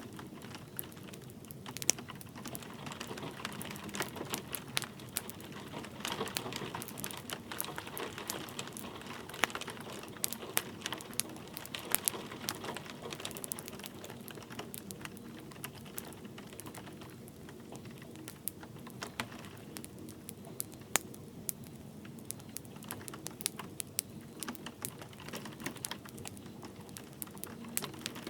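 Wood fire crackling with sharp, irregular pops and snaps over a steady soft hiss of light rain.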